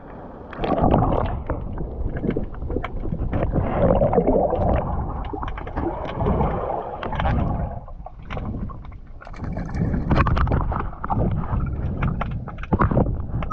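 Seawater rushing and gurgling around the camera during a dive, a muffled churning noise with many small clicks and knocks and a brief lull about eight seconds in.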